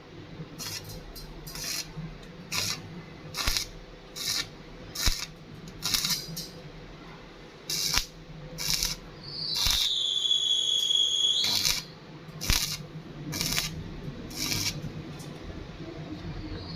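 Welding on a stainless steel pipe joint: short hissing bursts about once a second over a steady low hum, with a high whistling tone for about two seconds midway.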